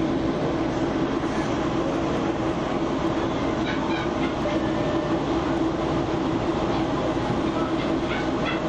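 Metrolink commuter train running, heard from inside a passenger car: a steady rumble of wheels on rail with a constant hum. A few brief, faint high-pitched rattles come about four seconds in and again near the end.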